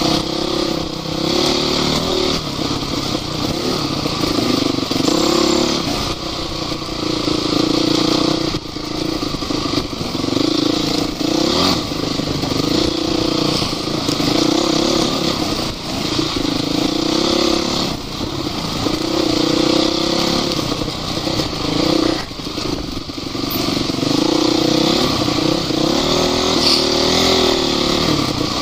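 Engine of an off-road vehicle driving hard, revving up and easing off again and again every couple of seconds.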